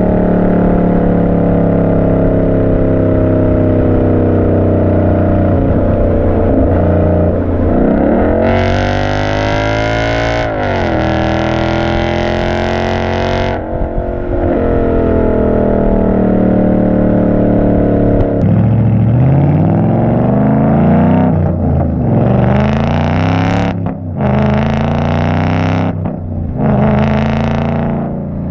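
2014 Mustang GT's 5.0 Coyote V8 through an aftermarket 3-inch exhaust, cruising at a steady note, then accelerating hard about eight seconds in with one upshift. It settles back to a steady cruise, then from about eighteen seconds it accelerates hard again through several gears, the note rising and dropping at each shift.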